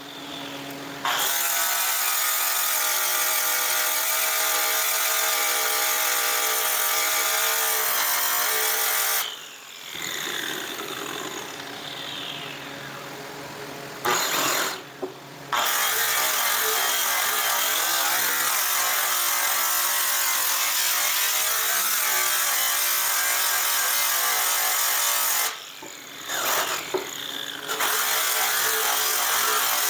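Handheld rotary power tool polishing a metal exhaust pipe, running steadily. It is switched off about nine seconds in and winds down with a falling whine, then starts again. It stops briefly once more near the end and starts up again.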